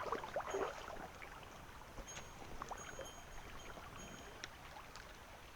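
A small mountain stream running and splashing over stones, busiest in the first second, with a few faint, thin high-pitched peeps in the middle.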